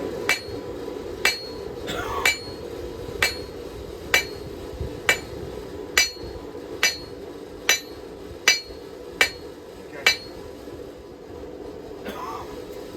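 Hand hammer striking hot steel on an anvil, about twelve evenly paced blows roughly a second apart, each with a brief metallic ring, beating the end of a knife blank into a bevel. The blows stop about ten seconds in, leaving a steady low hum.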